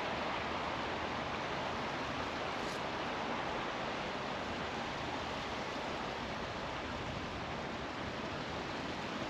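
Steady rushing wind noise on the microphone of a moving bicycle, with no breaks or distinct events.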